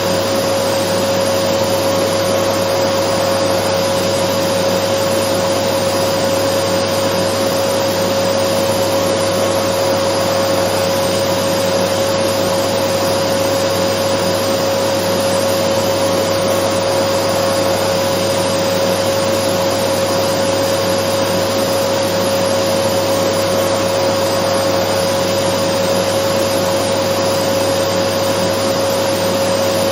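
Dyson vacuum cleaner running steadily: a loud, unbroken rush of air with a constant whine held at one pitch.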